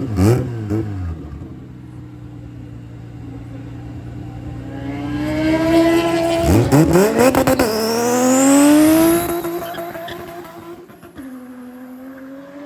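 Drag cars, among them a Toyota Mark II with a turbocharged 1JZ engine, launching hard off the line and accelerating down the strip. The revving engine pitch climbs, drops sharply about six and a half seconds in, climbs again, then fades near the end.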